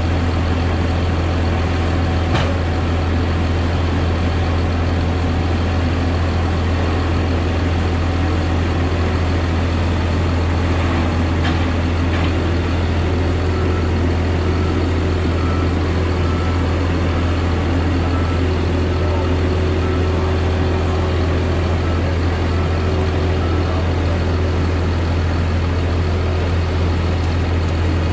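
Heavy diesel engine of a logging machine running steadily at a constant speed, a deep unchanging drone, with a couple of faint clicks.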